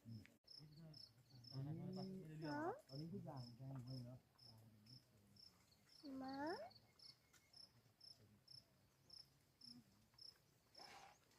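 Cricket chirping steadily in short, high-pitched pulses, about three a second. Faint low voice-like sounds underneath, with two brief rising calls.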